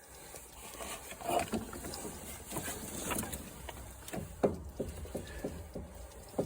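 Irregular clatter and knocks of hands handling metal mower parts and tools, with a sharper knock about a second in and a louder one a little past four seconds.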